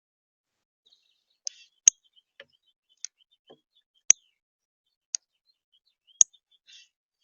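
A bird's sharp, high chip notes, about one a second with every other one louder, and faint soft twittering between them.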